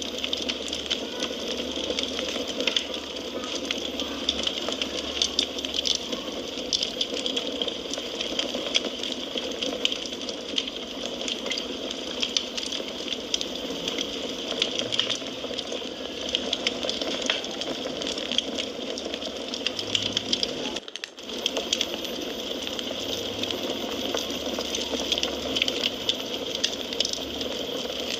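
Wood fire crackling: many small sharp snaps and pops over a steady hiss, with a brief dropout about two-thirds of the way through.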